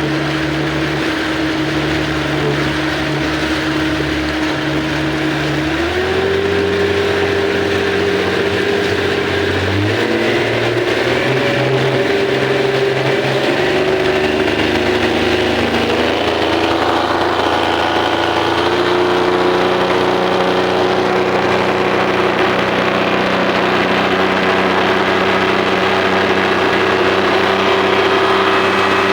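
Speedboat engine running under way, its pitch climbing in several steps as it speeds up.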